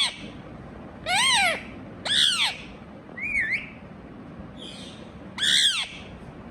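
Indian ringneck parrot giving a series of short squawking calls about a second apart, most rising and then falling in pitch, with one shorter wavering call in the middle.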